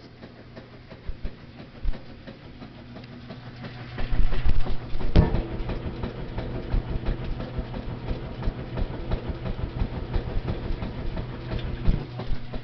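A washing machine running: a steady motor hum with a stream of irregular clicks and rattles. It gets louder about four seconds in, with one sharp knock just after.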